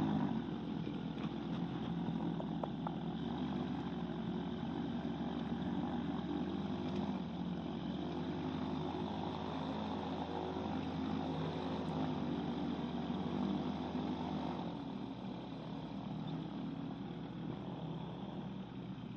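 Microlight trike's propeller engine running steadily at low power on the ground. The low part of the note drops away about fifteen seconds in.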